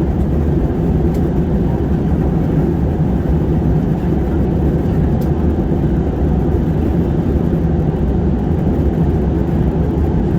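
Airliner cabin noise in flight: a steady low rumble of engine and rushing air, heard from inside the passenger cabin.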